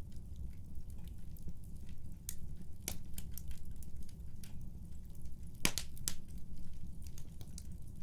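Wood fire burning in a fireplace: a steady low rumble with irregular sharp crackles and pops, the loudest snaps about three seconds in and a cluster near six seconds.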